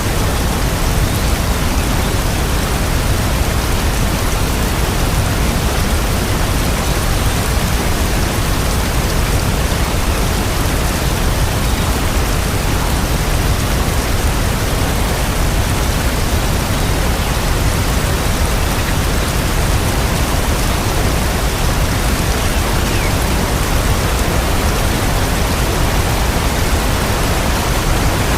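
Steady rain, an even unbroken hiss with a deep low rumble underneath and no distinct drops or thunder.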